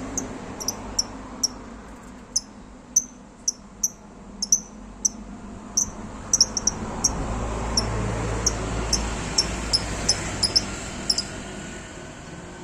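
Lovebirds giving short, high-pitched chirps at irregular intervals, roughly two a second, over a low background rumble. The chirps stop about a second before the end.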